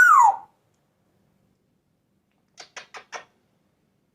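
African grey parrot whistling: a loud note that rises then falls, ending about half a second in. After a pause come four quick clicks in a row, about two and a half seconds in.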